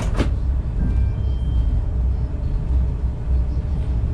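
Passenger train running on the rails, heard from inside the carriage: a steady low rumble, with two quick sharp clicks right at the start.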